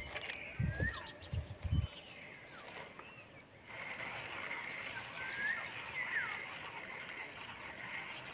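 Wild birds chirping outdoors, short calls that sweep up and down in pitch, over a steady background hiss that gets louder about four seconds in. A few low thumps of rod-and-reel handling come in the first two seconds.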